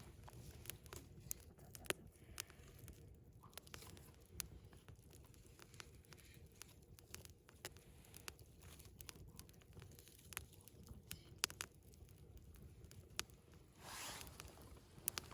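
Wood campfire burning hot, crackling with irregular sharp pops and snaps, with a brief rush of noise about fourteen seconds in.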